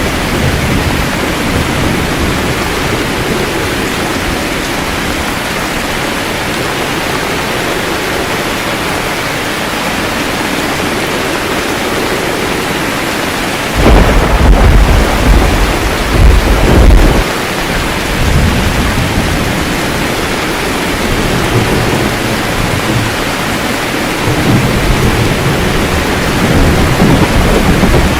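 Steady rain with thunder. A loud thunderclap rolls for about three seconds halfway through, and lower rumbles swell again near the end.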